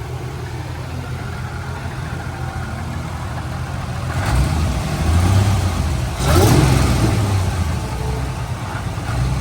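Holden VY Calais's supercharged L67 3.8-litre V6 idling roughly on five cylinders after dropping a cylinder, then revved in a few short blips from about halfway through. The owner suspects a broken ring land on cylinder 3.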